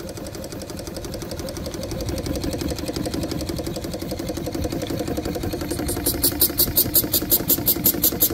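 Small steam engine running on steam with a fast, even mechanical beat, growing louder; from about six seconds in, loud hissing puffs of steam come in time with it, about four a second.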